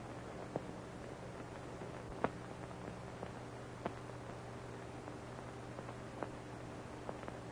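Background noise of an old optical film soundtrack: a steady hiss and low hum, broken by a few sharp clicks and pops, about four across the stretch.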